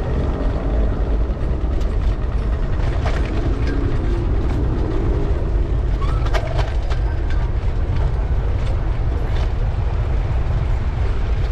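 Steady low wind rumble buffeting the microphone of a camera riding along on a moving bicycle, with faint city street noise and a few light clicks and ticks.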